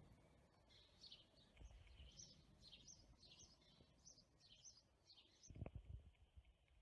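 Faint birdsong: a small bird's short high chirps, repeated about twice a second, with a soft low thump late on.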